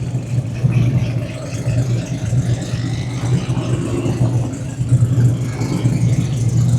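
A drag-race car's engine idling, a loud, steady, low exhaust note.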